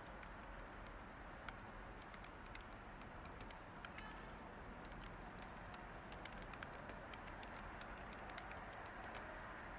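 Light computer-keyboard typing, soft irregular key clicks, over a faint steady white-noise hiss.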